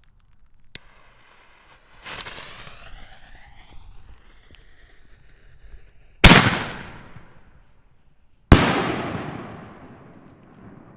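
A 5-inch canister firework shell being fired. A sharp pop comes about a second in, followed by a few seconds of hissing and crackling. Then two loud booming bursts about two seconds apart each die away in a long rolling echo.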